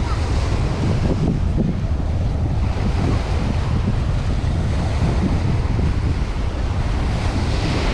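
Surf washing on a beach with wind buffeting the microphone, a steady rumbling wash.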